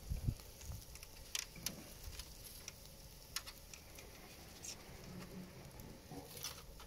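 Open cooking fire crackling, with sharp, irregular pops and snaps scattered through a faint hiss, and a few low thumps right at the start.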